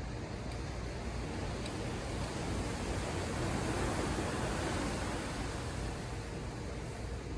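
Ocean surf: a wave swells and washes in, loudest about halfway through, then eases off, over a steady low rumble.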